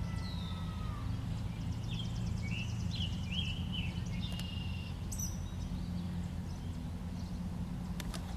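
Wild birds calling outside, with short chirps, a quick trill and slurred whistled notes, over a steady low hum. A couple of sharp clicks come near the end.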